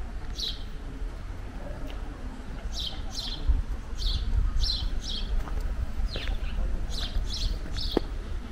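Small birds chirping: short, high chirps that slide down in pitch, coming singly and in quick pairs throughout, over a steady low rumble.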